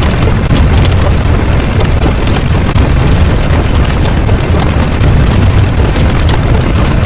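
A loud, steady low rumble with many small crackles and pops scattered through it. It is a dense mass of layered sound effects.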